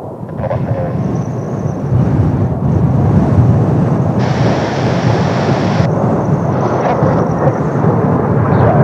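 Kawasaki T-4 jet trainers' twin turbofans heard from the ground as a deep, noisy rumble that grows steadily louder as the jets approach.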